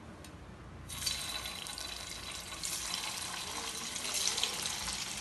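Poha-and-banana vadas sizzling as they shallow-fry in hot oil in a pan. The hiss starts about a second in and grows louder near the three-second mark as more vadas are laid into the oil.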